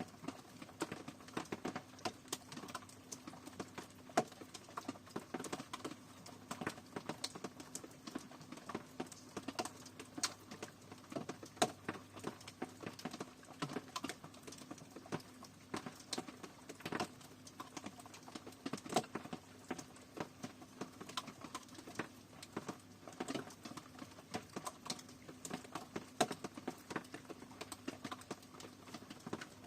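Rain falling, its drops landing as a dense, irregular pattering of sharp ticks, with a faint steady low hum underneath.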